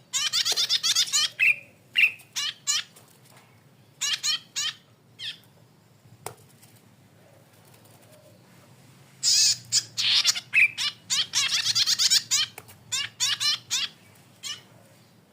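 Cisticola, the small songbird sold as cici padi kepala merah ('salome'), singing in bursts of fast, buzzy, chattering notes. Short phrases come in the first half, then after a pause of a few seconds a long, loud burst follows, and a few short notes close it.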